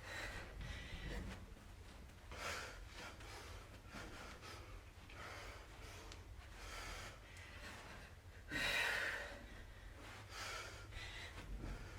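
Hard breathing from exertion during a kettlebell exercise: breathy exhales and gasps every second or two, the strongest about two-thirds of the way through.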